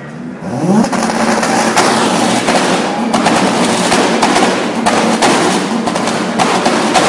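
Car engine with a loud performance exhaust revved hard for a loudest-exhaust sound-level test. The revs climb quickly about half a second in, then are held high with a constant crackle of sharp pops from the exhaust.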